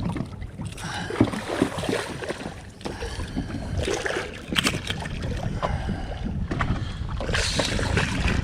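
Water lapping and sloshing against a small fishing boat's hull, with wind on the microphone and a few irregular knocks, the sharpest about halfway through.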